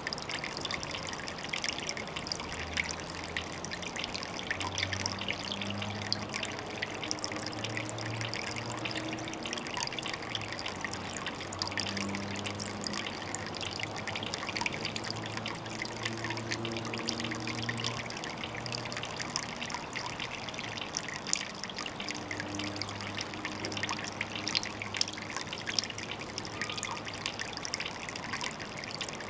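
Water trickling steadily at a pond, a constant splashing patter with low gurgling notes now and then.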